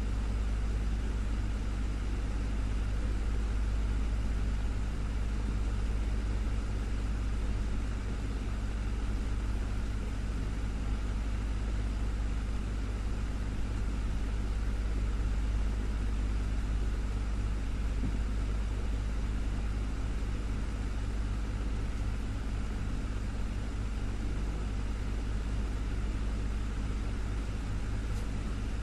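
Desktop fan running steadily: a constant low hum with an even airy whoosh over it.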